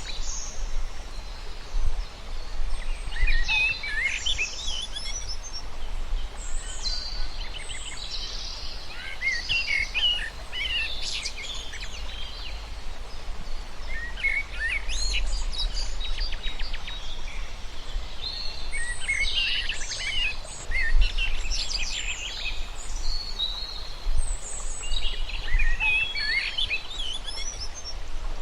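Several small birds chirping and trilling in short overlapping bursts every few seconds, over a steady low rumble.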